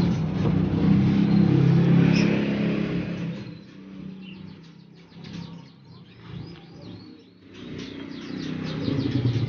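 A motor vehicle's engine drones loudly for the first three seconds, then fades, and another swells near the end. Caged songbirds chirp rapidly and repeatedly throughout.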